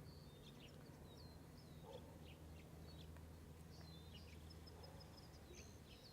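Faint songbirds chirping and whistling, many short high calls overlapping, with a quick trill of repeated notes about four seconds in, over a low steady hum.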